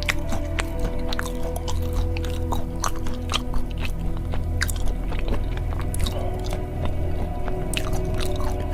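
Close-miked chewing and crunching of spicy peanuts, with many sharp crunches scattered throughout, over steady background music.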